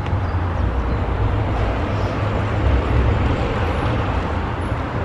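Mazda 3 2.0-litre engine running through a straight-pipe exhaust: a steady, loud, low drone with no revving, swelling slightly midway.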